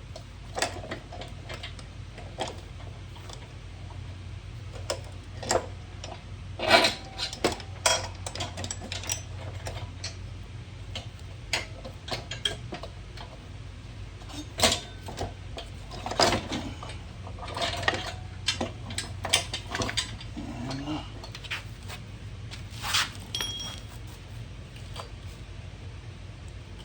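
Irregular metallic clinks and knocks of hand tools and bolts being handled while a mini bike's brake assembly is taken apart, over a steady low hum.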